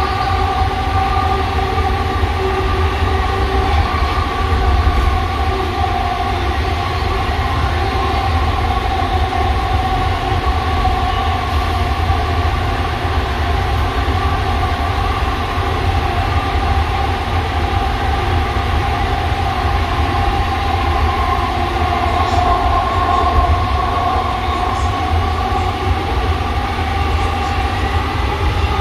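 AirTrain JFK car, a driverless Bombardier ART train driven by linear induction motors, running along its guideway, heard from inside the car. It gives a steady low rumble under a two-note electric whine that sags slightly and then rises near the end.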